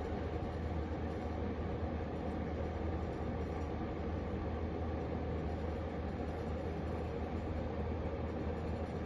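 Steady low rumble with an even hiss, unchanging throughout, like a vehicle in motion.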